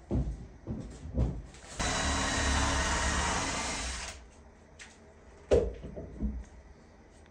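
A power tool runs for about two seconds and winds down, with a few sharp knocks of wood or tools before and after it.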